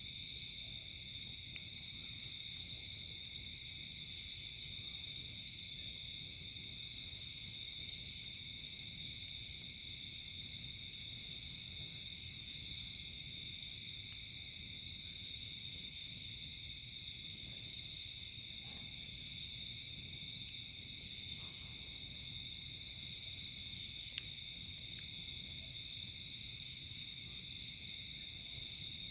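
Steady chorus of night insects, a continuous shrill drone, with a higher pulsed trill coming back every five or six seconds over a faint low rumble. There is one sharp crack late on.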